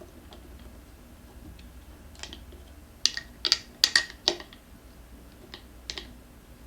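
Sharp metal clicks and clinks of hand tools (tire spoon and vice grip) against a scooter wheel rim as the tire bead is worked over it, with a quick run of four clicks a few seconds in and two more near the end.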